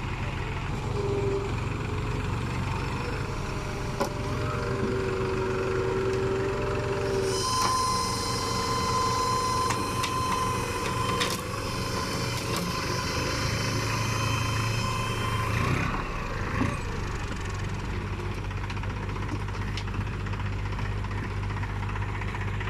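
Heavy machinery diesel engine running steadily. For several seconds in the middle a higher-pitched whine and clatter joins it, then drops away.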